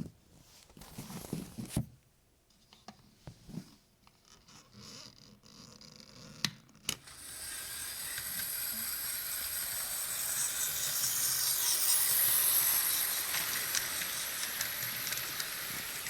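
A few scattered clicks and scrapes of handling. Then, about seven seconds in, a steady hiss begins, swells and eases slightly.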